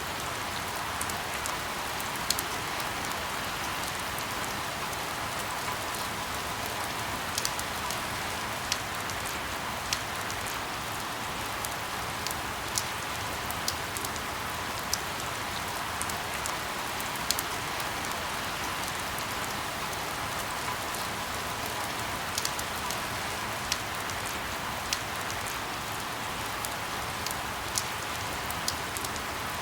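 Steady rain falling, with irregular sharp drip taps on a surface scattered through it.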